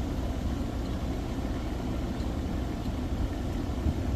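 Steady low background rumble, with a small knock near the end.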